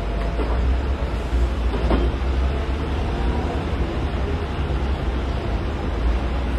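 Heavy diesel earthmoving machinery running with a steady low rumble, with a faint knock about two seconds in.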